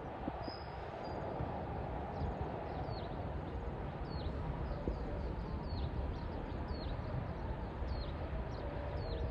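A bird calling with short, high, downward-sliding notes, repeated about once a second, over a steady low background rumble.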